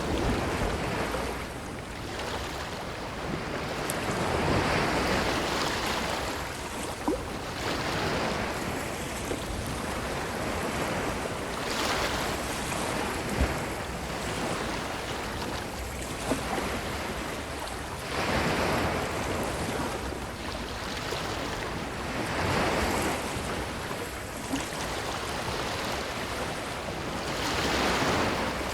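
Ocean waves breaking and washing up a beach, the surf swelling and easing every four to six seconds, with a few brief sharp ticks.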